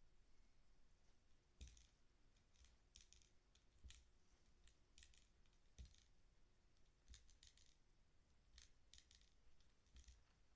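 Faint, irregular clicking and tapping from a cockatiel's beak nibbling and picking at a pair of glasses: quick little clusters of ticks every second or so, a few with a light knock.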